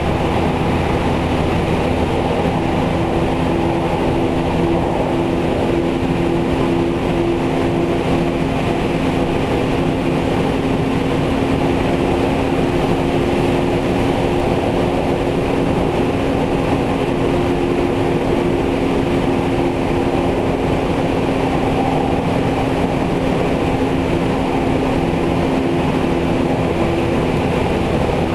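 Interior running sound of a JR Central 313 series 8000-subseries electric train, motor car KuMoHa 313-8502, heard at the car end: steady rolling noise with a hum in two tones that holds one pitch throughout.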